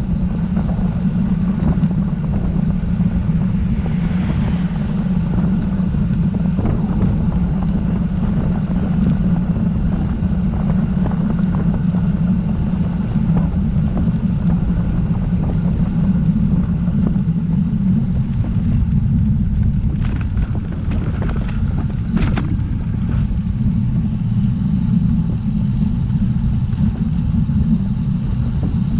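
Steady low rumble of wind on the microphone and tyre noise from a road bike on the move, with a few short clicks about two-thirds of the way through.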